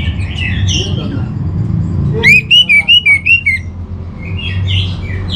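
Orange-headed thrush singing: warbling, varied phrases, broken in the middle by a loud run of about six quick, repeated upslurred notes.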